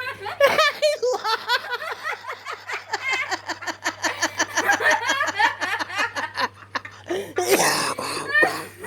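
A person laughing hard in a long, rapid run of pulses, breaking into a breathy cough near the end.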